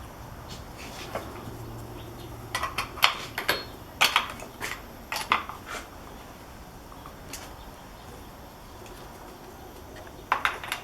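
Metal clinks and taps from hand tools and chainsaw parts being handled while the bar and chain are fitted. A quick cluster of sharp clinks comes a few seconds in, then a couple more near the end.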